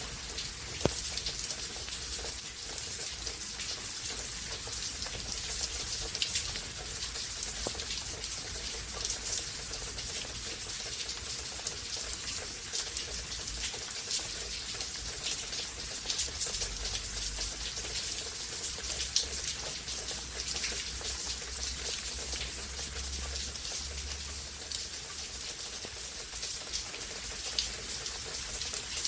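Rainstorm: a steady hiss of heavy rain with many separate drops striking close by, and one sharper tick about a second in.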